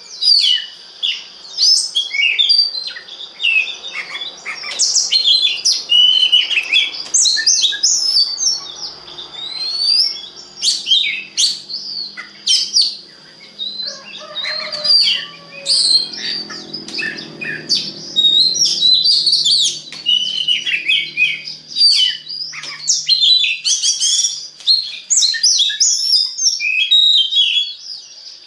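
Oriental magpie-robin (kacer) singing a loud, unbroken, varied song of quick whistles, trills and chirps, the gacor song used as a lure to set other magpie-robins singing. A steady high tone runs behind it.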